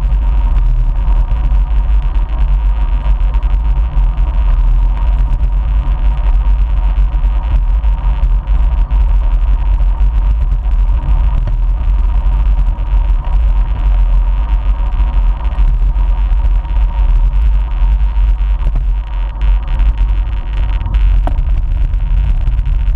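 Steady low rumble of riding a bike, wind buffeting the microphone over road noise, with a faint steady whine on top.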